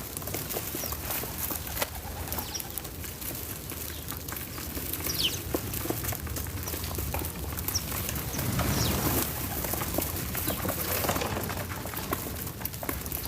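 A few brief, high bird chirps, around five seconds and eight seconds in, over a low steady rumble with scattered small clicks and taps.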